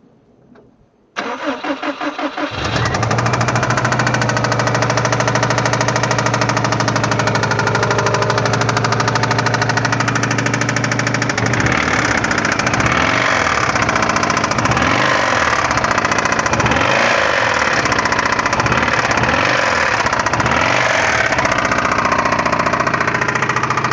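2002 Subaru WRX's turbocharged flat-four engine cranking and starting about a second in, then idling and being revved in short repeated blips through the second half. The engine has a broken piston ringland and a spun bearing, the source of its knock.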